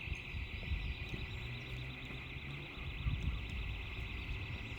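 A high-pitched alarm tone pulsing rapidly and evenly, several times a second, without a break, over a low rumble.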